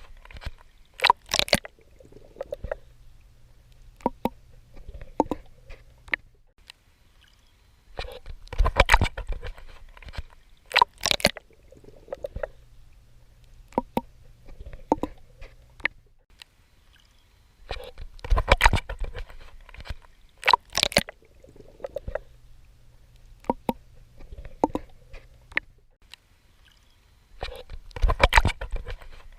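Swimming in water: clusters of splashing strokes return about every ten seconds, with quieter stretches of soft sloshing and a low hum between them.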